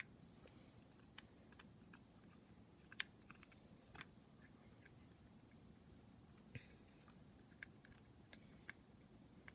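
Near silence with scattered faint clicks and small taps of small objects being handled; no drill motor is running.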